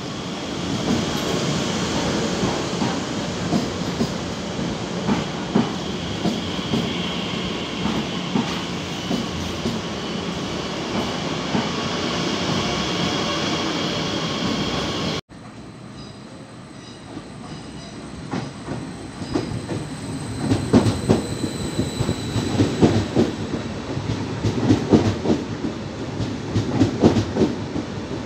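Bombardier Talent 2 electric multiple unit (class 442) running past close by: rumble of wheels on rail with a steady high whine over it. After an abrupt cut about fifteen seconds in, a second electric train rolls past, its wheels clattering over rail joints in a growing series of clunks.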